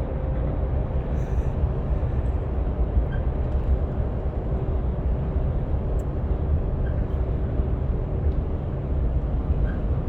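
Scania diesel engine running with a steady low rumble and a faint steady hum above it that fades near the end.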